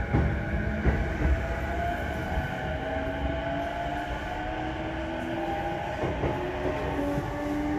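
JR East E233-1000 series electric train running under power: the Mitsubishi IGBT VVVF inverter and traction motors whine in several tones that rise gently in pitch as the train picks up speed, over a steady rumble of wheels on rail. A few short knocks come in the first second or so.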